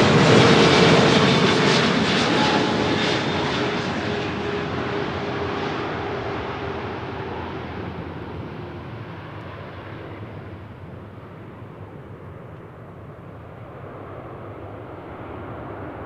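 Jet airliner's engines passing by and receding: loud at first, then fading steadily as the aircraft moves away, with an engine whine that slowly drops in pitch.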